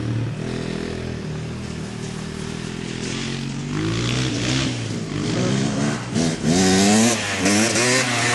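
Dirt bike engine running steadily, then revved hard again and again from about halfway, its pitch swinging up and down with the throttle.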